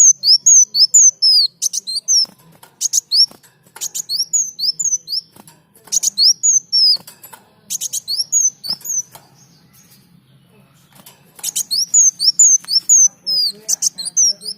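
Kolibri daun (sunbird) singing: phrases of rapid, high sweeping chirps mixed with sharp ticking notes, broken by short pauses and one longer pause about ten seconds in.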